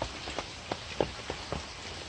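Rain falling steadily, an even hiss with a few heavier drops plinking sharply here and there.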